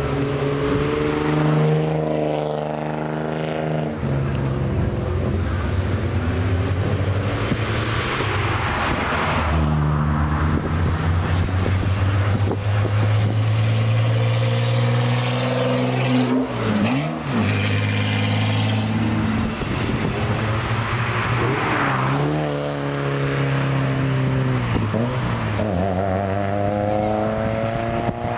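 Car engine through a loud aftermarket muffler, revved repeatedly: it is held high for stretches and swings up and down in pitch, with a brief drop about two-thirds of the way through.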